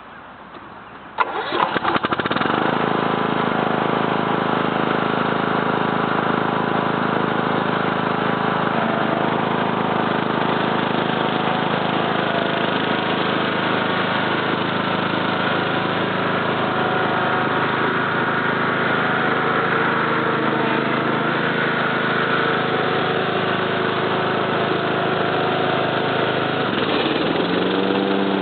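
Cub Cadet LT 1042 lawn tractor's 19 HP Kohler engine cranked by the starter, catching about two seconds in and then running steadily. Near the end its pitch rises as the throttle is opened.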